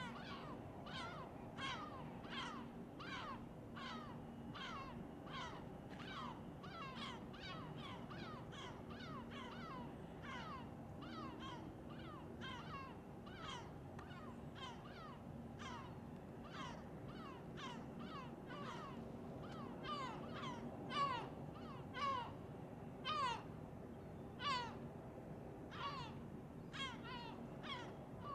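A bird calling over and over in short calls that fall in pitch, about one and a half a second, louder in the last third, over a low steady hum.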